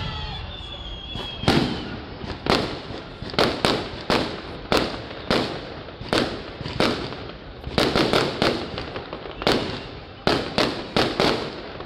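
Aerial firework shells bursting in a rapid, uneven series of sharp bangs, about one to three a second, some coming in quick clusters. The bangs start about a second and a half in.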